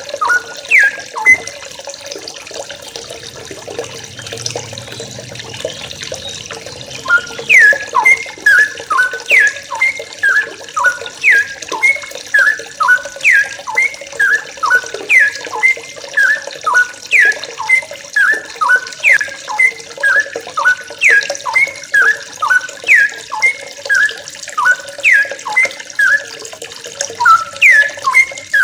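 Yellow-vented bulbuls (trucukan) calling over and over: short, sharp notes that fall steeply in pitch, about one phrase a second, with a pause of a few seconds near the start. A steady hiss like running water lies behind the calls.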